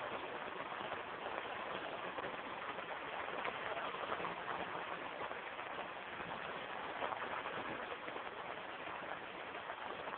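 Steady rain pattering on the roof overhead, heard from underneath as a dense, even patter of drops.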